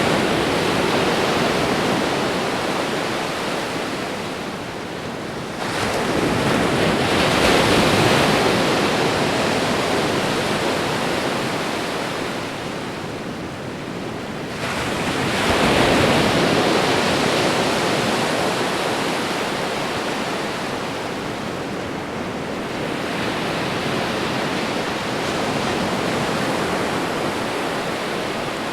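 Ocean waves breaking on a shore: a steady rush of surf that swells as a wave breaks, about 6 s, 15 s and more gently 23 s in, and eases off as each one washes back.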